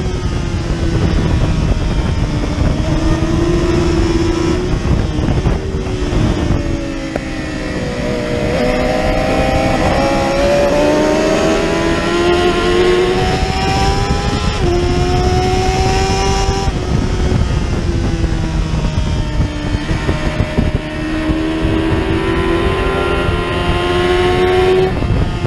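Lightweight superbike racing motorcycle engine under hard acceleration. Its pitch climbs and drops back in steps as it shifts up through the gears. It eases off and the pitch falls about six seconds in and again around seventeen seconds, then it pulls up through the gears again.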